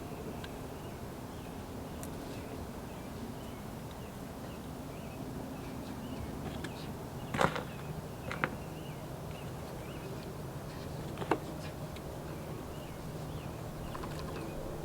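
Outdoor ambience with faint high chirps of a bird repeating about twice a second, broken by three sharp knocks of something being handled, the loudest about halfway through.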